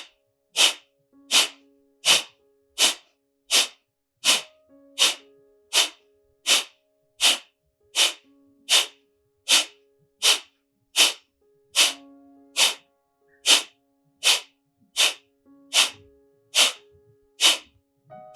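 Kapalbhati breathing: about 25 short, forceful exhalations sniffed out through the nose in an even rhythm, a little under a second and a half apart. Each one is pushed out by pulling the navel back, and the inhalation in between is quiet. Soft background music holds steady underneath.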